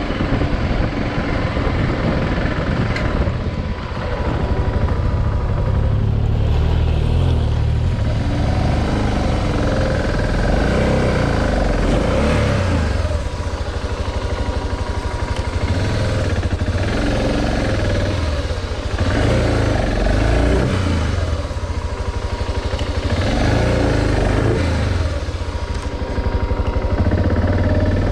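Adventure motorcycle engine running under way, its note rising and falling again every couple of seconds as the rider works the throttle.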